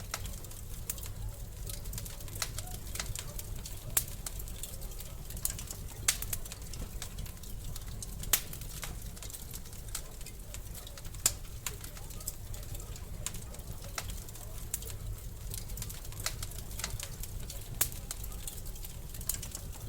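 Wood fire in a fireplace crackling: irregular sharp pops and snaps, a handful of them louder, over a steady low rumble.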